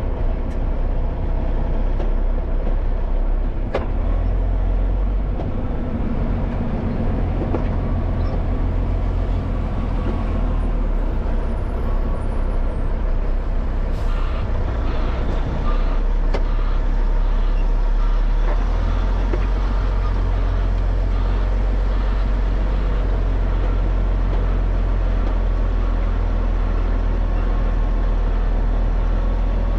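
Dump truck's diesel engine and road noise while driving, a steady low rumble heard from the cab that grows stronger about halfway through.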